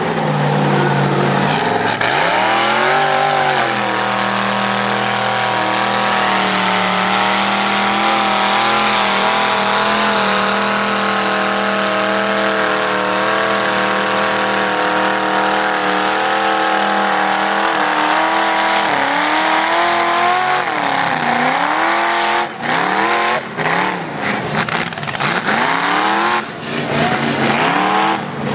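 A 4x4 mud-racing truck's engine at hard throttle: the revs climb in the first few seconds and hold high for a long stretch, then rise and fall again and again, with several sudden breaks near the end.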